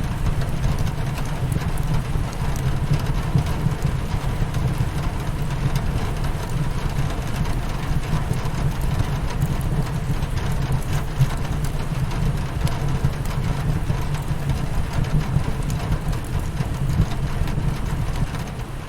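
Steady rain pattering on a windowpane mixed with a crackling wood fire, over a heavy low rumble.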